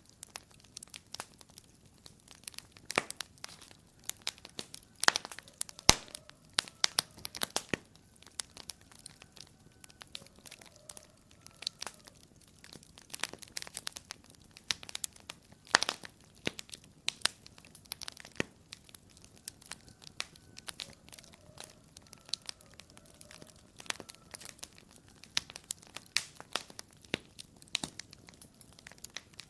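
Wood fire crackling in a fireplace: irregular sharp pops and snaps over a soft hiss, the loudest pops about 5, 6 and 16 seconds in.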